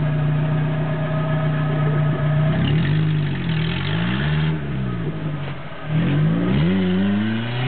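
Suzuki Samurai off-roader's engine held at steady high revs under load, then revved up and down several times as the vehicle works in the mud of a steep, churned-up gully.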